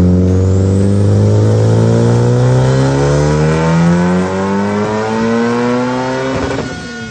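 Honda Civic Type R's turbocharged 2.0-litre four-cylinder (K20C1) at wide-open throttle on a chassis dyno, revs climbing steadily through the gears' pull under full boost. A faint rising whistle sits over the first few seconds. About six and a half seconds in the pull ends in a short rough burst and the revs fall: the engine hitting the rev limiter while running rich, giving a slight puff on decel.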